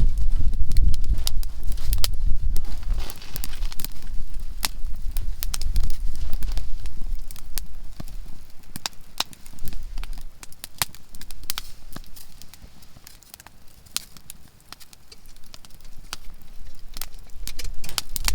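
Softwood (conifer) firewood burning with irregular sharp pops and snaps. Under them runs a low rumble, loudest in the first half, fading away about two-thirds of the way in and building again near the end.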